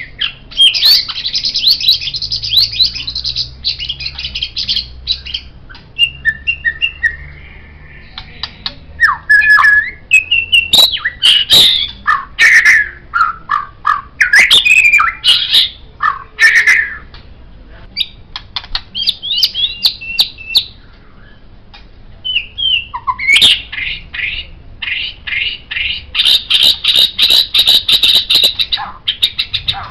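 White-rumped shama (murai batu) singing: fast runs of rapid chattering notes alternate with separate clear whistled notes and slides, with brief pauses between phrases.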